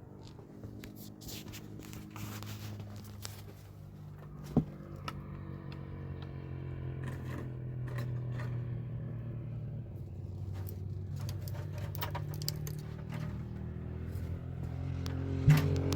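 A steady low motor-like hum with scattered scraping and clicking. A sharp knock comes about four and a half seconds in, and another near the end.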